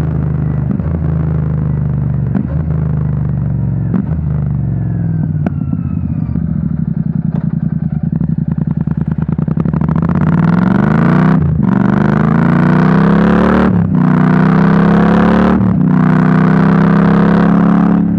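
Royal Enfield 650 parallel-twin engine through a Rhino Racing V4 Grenade slip-on exhaust, running steadily at low revs at first. From about ten seconds in it revs up and gets louder, the note climbing and breaking off briefly three times before picking up again.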